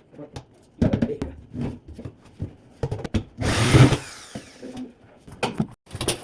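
A power drill running briefly just past the middle, among scattered knocks and clatter of tools being handled.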